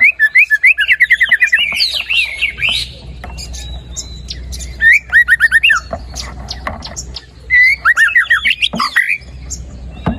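White-rumped shama (murai batu) singing loudly in full voice: three phrases of rapid, repeated whistled notes with short pauses between them, the first and longest at the start, another about five seconds in and a last one near the end.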